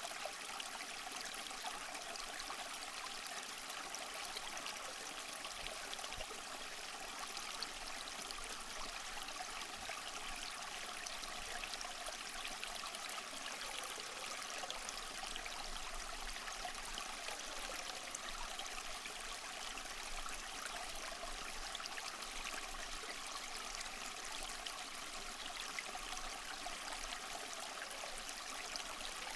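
Small waterfall splashing and trickling steadily over mossy rocks, an even rush of falling water with fine splashy detail.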